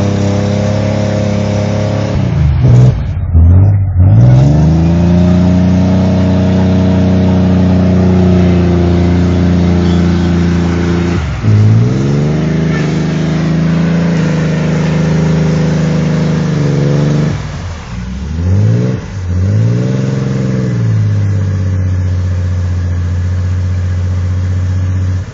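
Off-road 4x4 truck engine revving hard while driven through deep water. Its pitch dips and climbs back up a few seconds in, again about halfway through, and twice more later on.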